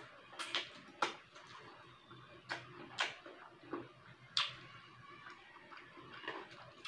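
Mukbang eating sounds: open-mouthed chewing of rice and fried fish eaten by hand, with a series of irregular wet lip smacks.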